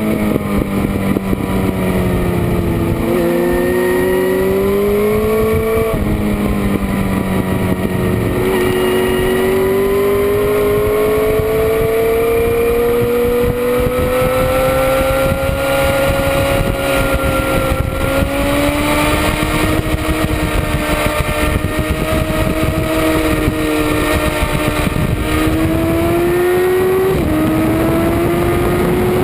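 Sport motorcycle engine at speed on a race track, its pitch climbing under throttle and dropping sharply at each of several gear changes, with a long slow rise and fall through a sweeping section. Steady wind rush underneath.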